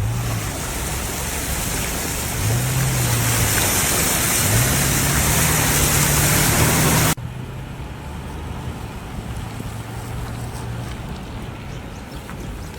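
A loud, steady rush of moving water with a motor vehicle's engine running under it, rising in pitch twice. About seven seconds in it cuts abruptly to a quieter, steady rush with a low engine hum.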